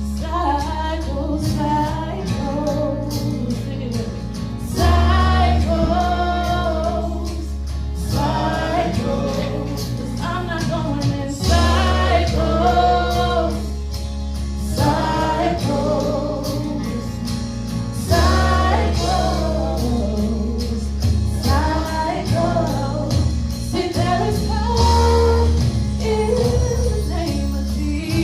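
Gospel worship song: singers, in places a choir, over a heavy bass line that moves to a new note every few seconds.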